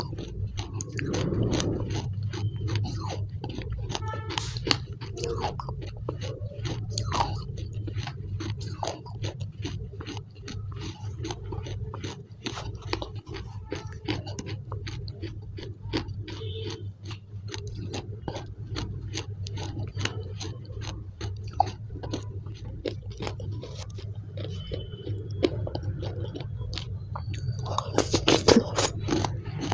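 Close-miked mouth sounds of blue clay paste being chewed: a dense run of small wet clicks and smacks, with a metal spoon scraping through the paste in the tub. A steady low hum sits underneath. A louder flurry of clicks comes near the end as another mouthful goes in.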